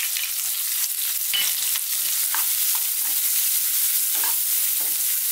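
Sliced onions and garlic-ginger paste sizzling steadily in hot oil over high heat in a small wok, with a spatula scraping and knocking against the pan now and then as they are stir-fried.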